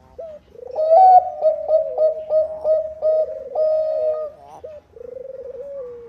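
Bangkok zebra dove (perkutut) cooing: a loud phrase of quick, clipped coos from about half a second in, ending in a lower rolling trill near the end.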